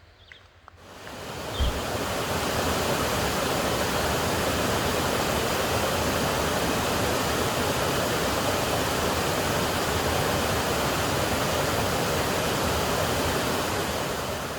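Rushing water, a steady, even hiss of heavy flow that fades in about a second in and holds unchanged.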